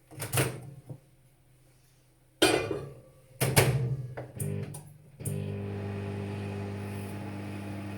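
Several clunks and clicks of a microwave oven door and controls, then the microwave starts heating with a steady electrical hum.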